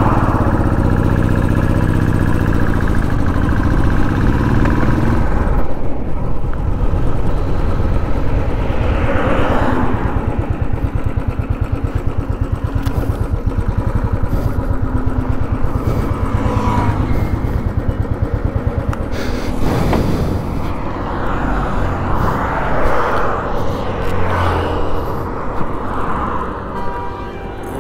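Royal Enfield Classic 350's single-cylinder engine running on the move, with clear engine harmonics over the first five seconds, then mostly wind and road rush.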